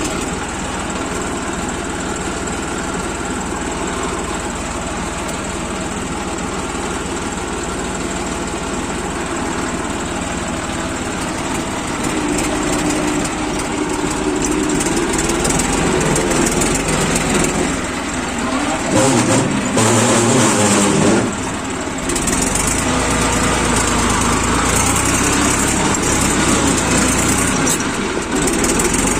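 Tractor engine running steadily, growing louder about twelve seconds in and loudest for a couple of seconds near the two-thirds mark.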